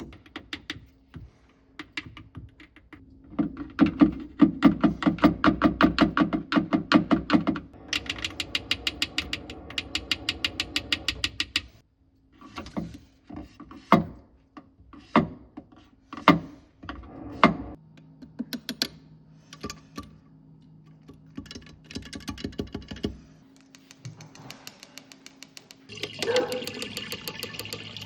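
A fast run of even mechanical clicks, about eight a second, then scattered knocks, all over a steady low hum. Near the end, water starts rushing.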